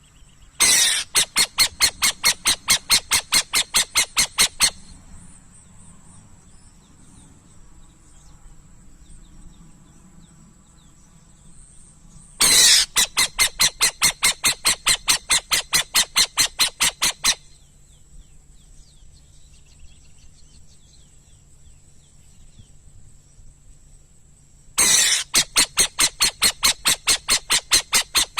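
Burrowing owl giving three bouts of harsh, rapid chattering notes, about four a second, each bout lasting about four seconds with long pauses between.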